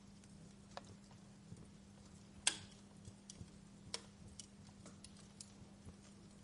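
Wood fire crackling softly, with scattered small pops and one sharper snap about two and a half seconds in, over a faint steady low hum.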